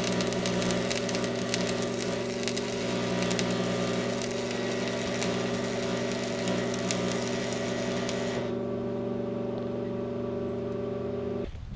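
Arc welding: the arc crackles and sizzles over the welding machine's steady hum. The crackle stops about eight and a half seconds in while the hum keeps going, and the hum cuts off near the end.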